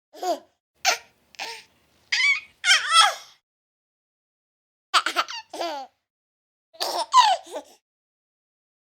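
A baby laughing and squealing in short high-pitched bursts, with a pause of over a second in the middle.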